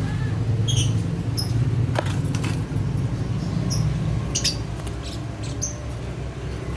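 Lovebirds giving short, shrill chirps every second or so, over a steady low hum.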